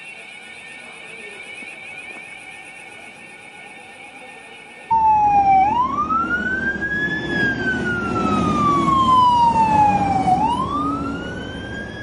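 An electronic alarm sounding a steady high-pitched tone, then about five seconds in an abrupt switch to an emergency vehicle siren wailing, sweeping slowly up and down, over a low rumble of traffic noise.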